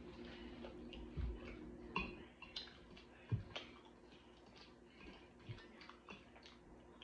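Close-up chewing and wet lip-smacking on a mouthful of loaded steak fries: many small irregular mouth clicks, with a few louder soft thumps in the first half.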